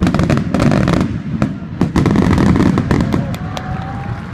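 Fireworks display: a volley of aerial shell bursts starts suddenly, with dense rapid crackling over low booms for about three seconds, then thins out toward the end.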